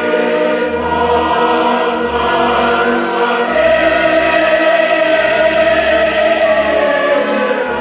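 Choral music: a choir singing long held chords over low bass notes.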